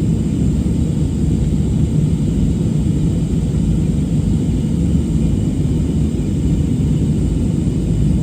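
Airliner cabin noise: the engines and airflow heard from inside the passenger cabin as a steady, loud low rumble that does not change in pitch or level.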